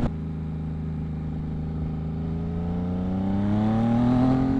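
2022 Yamaha MT-09's three-cylinder engine through its Two Brothers exhaust, running steadily and then rising smoothly in pitch and loudness over the last couple of seconds as the bike accelerates.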